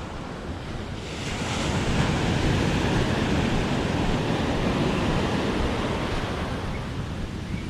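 Ocean surf: a wave breaks about a second in and washes up the beach, then slowly eases. Wind rumbles on the microphone throughout.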